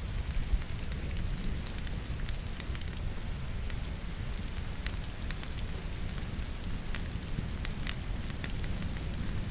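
Wood logs burning in a fireplace, crackling and popping in scattered sharp snaps over a low steady rumble, with rain falling in the background.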